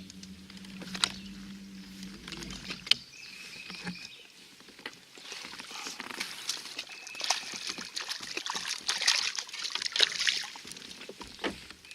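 Water splashing and sloshing beside a kayak, strongest in the second half, with a few sharp knocks; a steady low hum runs for about the first two seconds.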